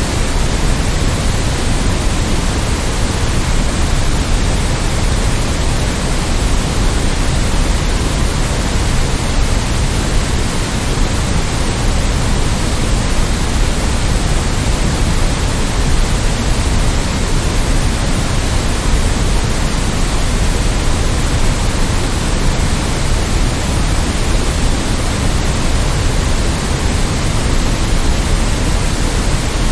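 Continuous generated white noise: a steady, even hiss that never changes, weighted toward the low end.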